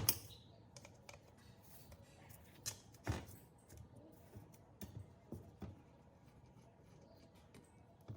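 Scattered light clicks and taps of tools and parts being handled during a workshop repair, with one louder knock about three seconds in.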